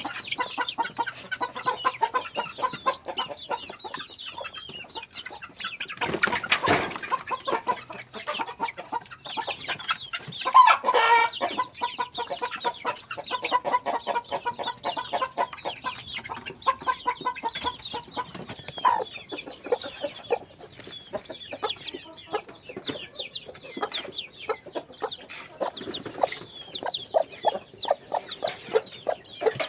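A flock of chickens clucking and calling without a break, with a louder burst about six seconds in and the loudest call about eleven seconds in.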